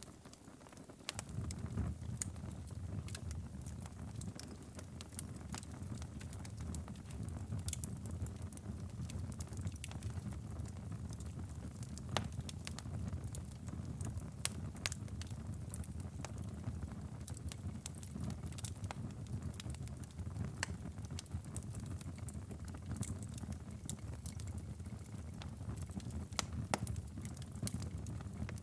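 Wood fire crackling and popping, irregular sharp snaps over a steady low rumble. The rumble dips briefly right at the start.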